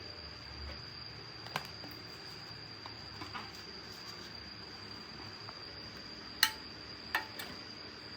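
A few sharp clicks and light knocks of tools and small parts being handled during work on a petrol water pump, the loudest about six and a half seconds in with two more soon after. A steady high thin whine and hiss run underneath.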